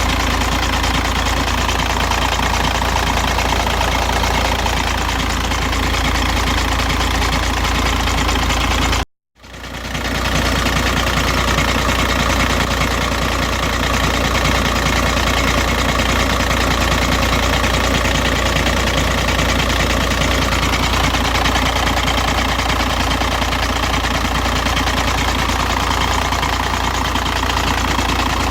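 Volkswagen Jetta TDI's 1.9-litre four-cylinder turbodiesel idling steadily with a strange noise from the bottom of the engine, which the owner reports only before the engine warms up; the timing belt has been changed and the oil pump checked without finding the cause. The sound cuts out briefly about nine seconds in, then carries on unchanged.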